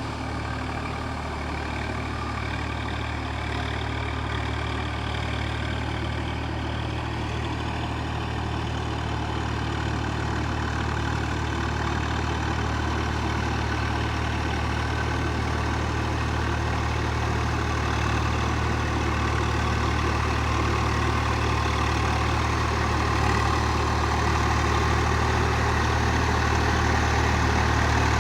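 A tractor's diesel engine runs steadily with a low, even drone, slowly getting louder.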